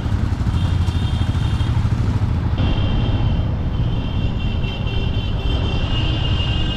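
Motorcycle engine running steadily under way, a low continuous rumble, with high thin tones around it that come and go.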